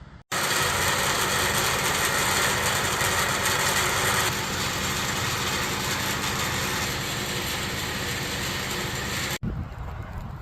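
Truck engine running steadily under a strong hiss. The sound starts abruptly, drops slightly about four seconds in, and cuts off suddenly near the end.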